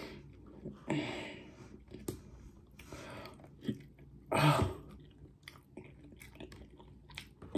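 A person chewing a mouthful of hard-boiled egg with hot sauce, with small wet mouth clicks throughout. Two louder breathy throat noises, like throat clearing or a cough, come about a second in and about four and a half seconds in, the second being the loudest.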